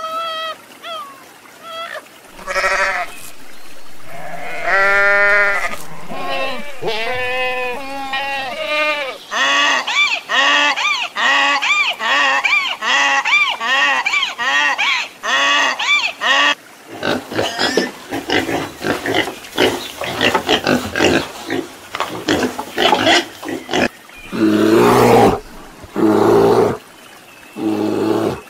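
A string of animal calls. First come a red fox's short, pitched yelps. Then a donkey brays in long, repeated rising-and-falling cries, followed by a stretch of rapid rough grunting pulses. Near the end come deep, rough growls of a brown bear.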